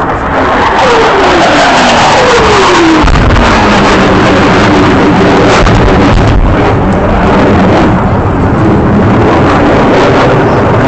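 F/A-18 Hornet fighter jet making a fast, low pass, its loud engine roar dropping in pitch as it goes by, followed by a sustained jet roar.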